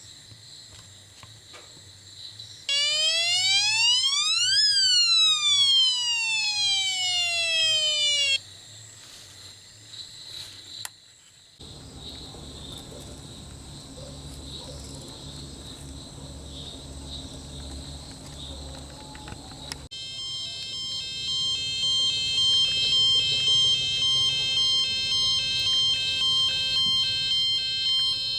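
Electronic siren and alarm tones: a loud pitch sweep that rises and then falls, followed by a low hum and then steady, pulsing high beeps.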